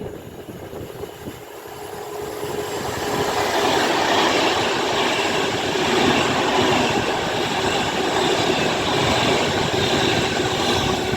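Class 390 Pendolino electric train passing through the station: the wheel and rail noise builds from about two seconds in and then stays loud and steady.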